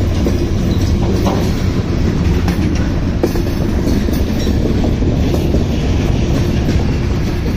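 Freight train's railcars rolling past with a steady heavy rumble and the clickety-clack of wheels over rail joints.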